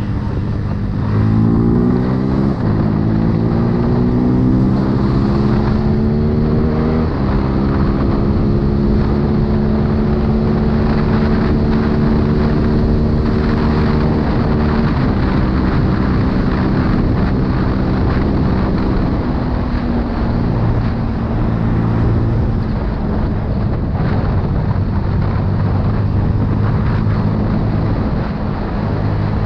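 CFMoto 250CL-X's single-cylinder engine pulling under way, revs climbing and dropping sharply at two upshifts in the first seven seconds, then holding steady and easing off a couple of times later. Wind noise rushes over the microphone throughout.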